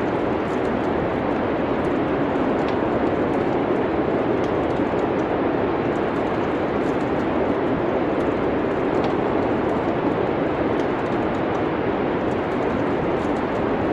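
Wood fire crackling with faint, scattered small pops over a steady, even rushing noise like wind.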